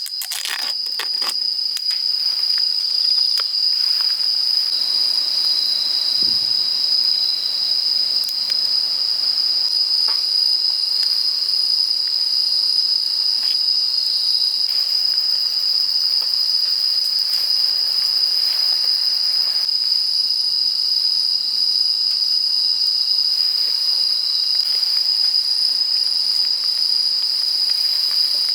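Crickets and other autumn insects chirping, a steady high-pitched chorus, with a few light clicks about a second in.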